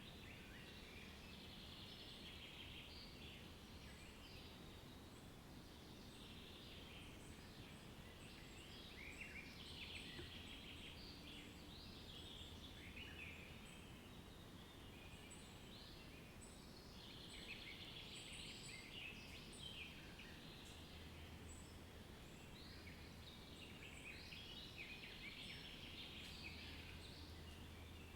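Faint birdsong: several birds chirping and chattering in bursts that come and go every few seconds, over a soft steady background hum.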